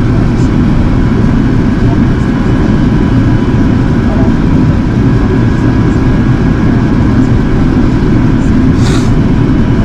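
Steady low drone of airflow and engines inside the passenger cabin of an Airbus A380 in flight, with faint steady whines in it. A brief high hiss sounds about nine seconds in.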